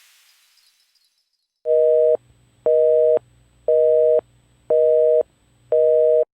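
Telephone busy signal: a two-tone beep repeating five times, half a second on and half a second off.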